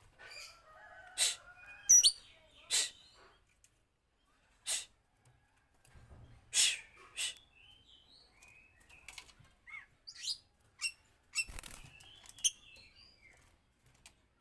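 Oriental magpie-robin (kacer) singing: scattered sharp chirps and short whistled phrases that slide up and down in pitch, with brief pauses between them.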